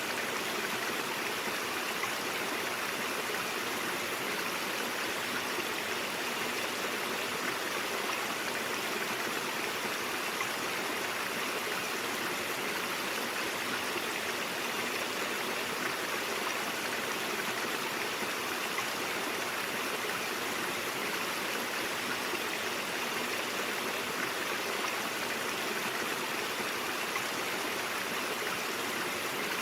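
A mountain stream flowing over rocks: a steady, even rush of water with a light gurgle.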